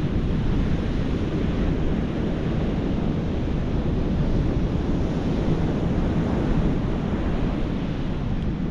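Surf breaking on a beach in rough conditions, with strong wind buffeting the microphone: a steady wash of noise, heaviest in the low end.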